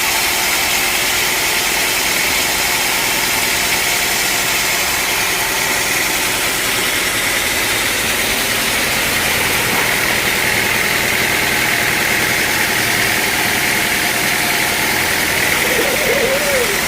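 Sawmill machinery running steadily: a loud, continuous engine-driven noise with an unchanging high hum.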